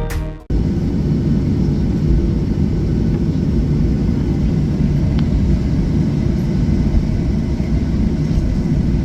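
Steady low rumble of cabin noise inside a Boeing 737-800 airliner: jet engine and airflow noise heard from a passenger seat. A music track cuts off about half a second in.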